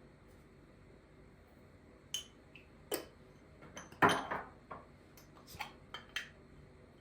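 Kitchenware being handled: a run of short clinks and knocks starting about two seconds in, the loudest one about four seconds in with a brief ring.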